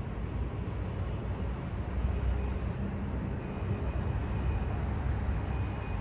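City traffic ambience: a steady low rumble of road vehicles, with a brief hiss about halfway through and a faint high whine in the second half.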